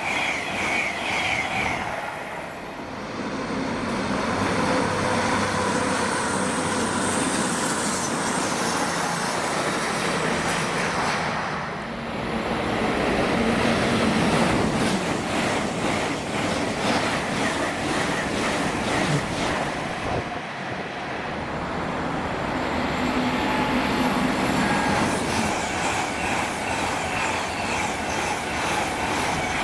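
GWR Hitachi Class 800-series Intercity Express Trains passing at speed: a loud, steady rush of wheels on rail and air, with steady motor hums underneath. The noise falls off briefly three times as one train's pass gives way to the next.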